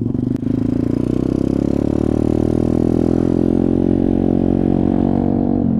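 Off-road motorcycle engine under way, its pitch climbing steadily for about three seconds as it accelerates, then holding before it drops as the throttle is eased near the end. A single click comes just after the start.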